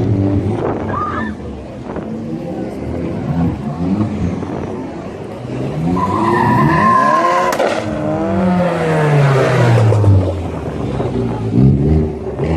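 Modified cars' engines revving and accelerating away, their notes rising and falling as they pass. About six seconds in, a short high squeal comes as one car pulls hard, and its engine note then falls as it goes by.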